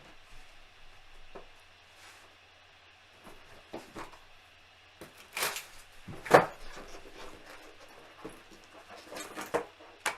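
Scattered rustling and handling noises, with a louder bump about six seconds in.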